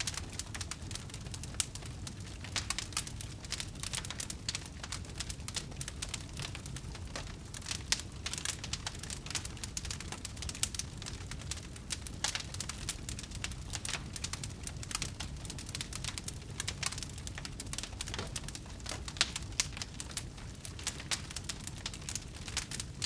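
Wood fire burning in a fireplace, crackling with many small irregular pops and snaps over a low steady rumble of the flames.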